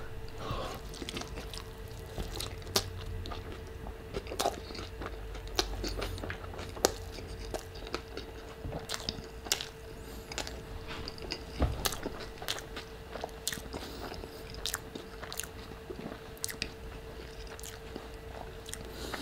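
Close-miked chewing of a mouthful of tilapia fish taco: wet mouth clicks and smacks at an irregular pace, over a faint steady hum.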